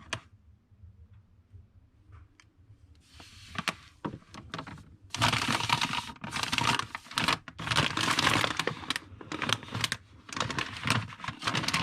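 Plastic food packaging crinkling and rustling as it is handled, with many small clicks and knocks; it begins faintly about three seconds in and gets much louder about five seconds in.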